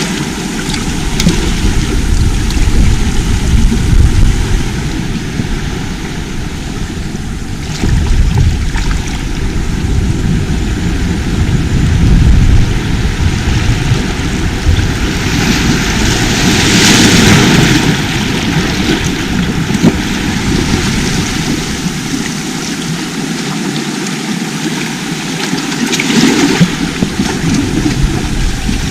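Sea waves washing on the shore: a steady, loud wash with a low rumble under it. A bigger wave surges up about two-thirds of the way through.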